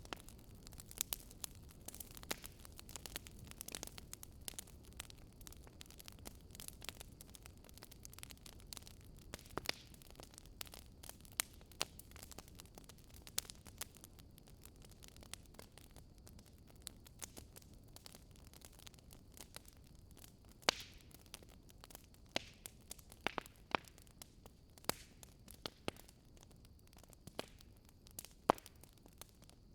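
Fire crackling: irregular sharp pops and snaps over a soft low rumble, with a few louder pops in the second half.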